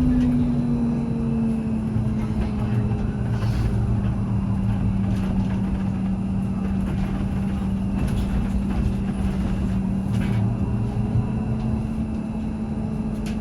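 Ride inside a moving trolleybus: the electric drive hums with a steady tone that drops slightly in pitch over the first second or so and then holds, over a low rumble of the road.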